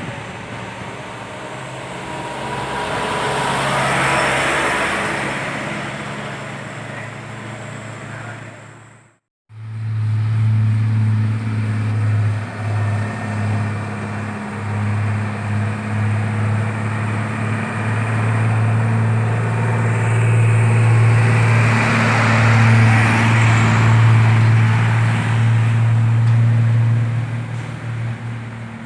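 Road traffic passing. After a brief cut to silence, a heavy vehicle's engine and exhaust keep up a loud, steady low drone while another vehicle passes.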